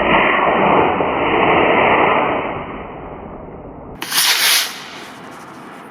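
Model rocket motor igniting on the pad and burning with a loud, steady hiss for about two and a half seconds, fading as the rocket climbs away. A short burst of noise follows about four seconds in.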